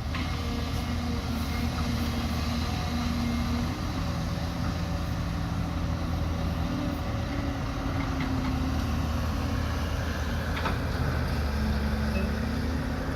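Heavy diesel engine of an excavator running steadily at a construction site, its pitch shifting a little as it works, with one sharp knock about ten and a half seconds in.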